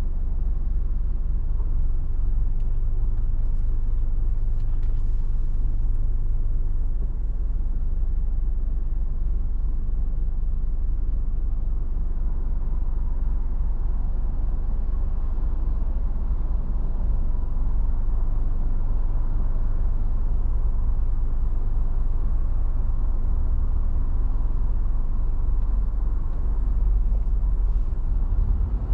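A car driving along at a steady speed: a steady low rumble of road and engine noise.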